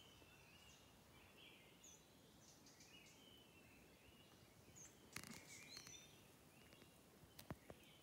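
Faint, scattered short bird chirps over quiet forest background. A few soft clicks come about five seconds in and again about seven and a half seconds in.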